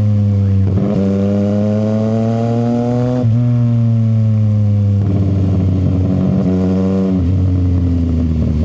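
CFMoto 675SR-R's inline three-cylinder engine through an aftermarket short exhaust, pulling under way. Its note climbs steadily, dips sharply at a gear change about three seconds in, then climbs again. After about five seconds it runs rougher and steadier.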